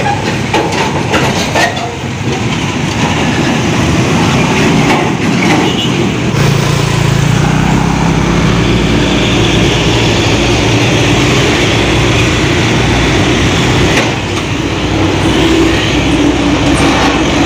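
Heavy truck's diesel engine running under load as it climbs the road, mixed with road noise; a deep rumble grows in about six seconds in and stays.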